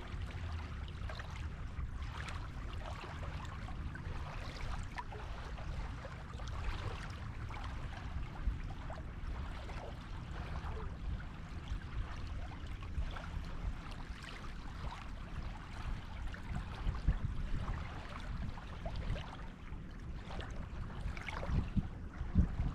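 Water washing and fizzing on a beach, with a steady low rumble underneath and a few louder swells near the end.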